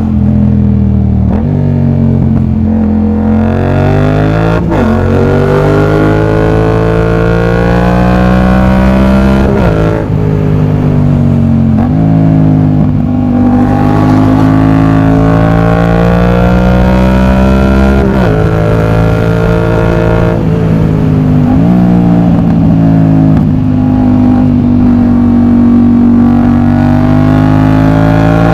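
Yamaha MT-07's CP2 parallel-twin engine through an aftermarket exhaust, riding and accelerating through the gears: the engine note climbs steadily, then drops sharply at each shift, about five times.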